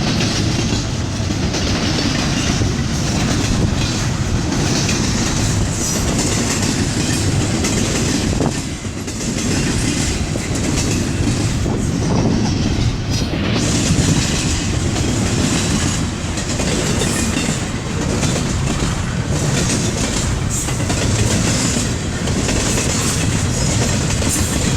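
Long freight train of intermodal and manifest cars rolling past, a steady rumble of steel wheels with clickety-clack over the rail joints and a brief lull about eight seconds in.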